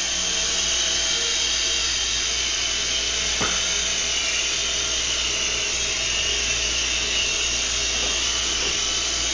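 Small toy RC Chinook helicopter in flight: its small electric motors whine steadily and its rotor blades whir, the pitch wavering slightly. There is a single light tick about three and a half seconds in.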